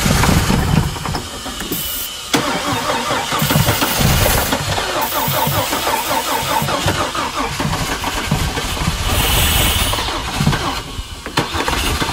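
Chevy S10 engine running rough on sprayed carburettor cleaner, firing unevenly with its speed surging and sagging. It nearly drops out about two seconds in, then catches again suddenly.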